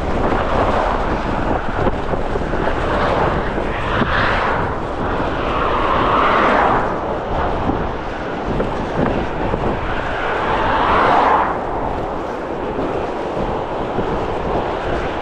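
Strong gusty wind buffeting the microphone: a steady, choppy low rumble under a rushing noise that swells twice, about four seconds in and again about ten seconds in.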